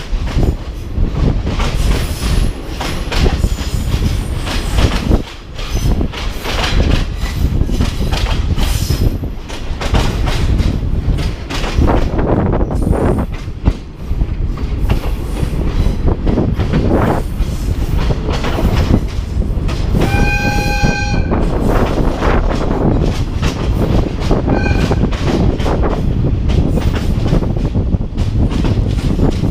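Train running on the line, heard from aboard: a steady rumble and clatter of the carriages over the track, with the horn sounding once for about a second about two-thirds of the way through and a short faint toot a few seconds later.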